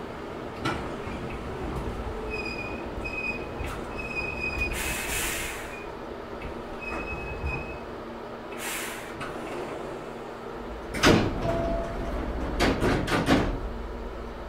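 Hankyu 6300 series electric train, heard from inside the car, braking to a stop at a station: a high brake squeal with two bursts of air hiss. About eleven seconds in, a loud thud and then a quick run of knocks and rattles as the sliding doors open.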